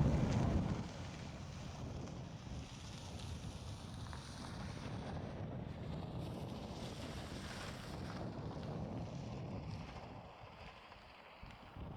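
Storm wind buffeting the microphone: a louder low gust at the start eases within about a second into steady blustery noise, which drops off briefly near the end.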